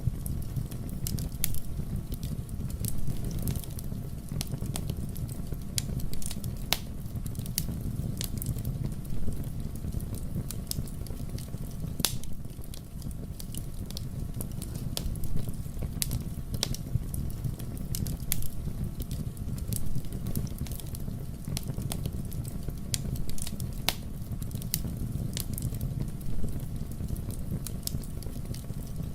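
Wood fire in a fireplace burning with a steady low rumble and frequent, irregular sharp crackles and pops.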